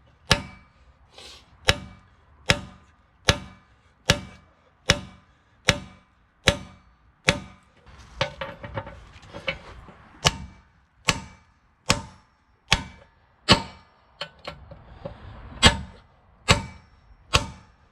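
Hammer striking steel over and over, about one blow every 0.8 seconds, with a few quicker, lighter knocks a little past the middle. It is beating out a worn attachment-pin bushing.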